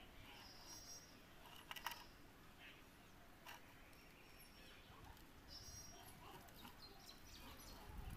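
Near silence, with faint high bird chirps now and then and two light clicks, about two and three and a half seconds in.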